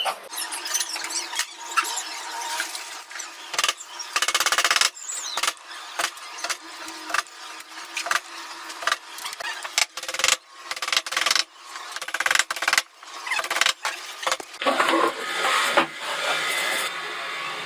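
Woodworking noises: scraping and rubbing on wood in uneven bursts that stop and start abruptly, with short squeals.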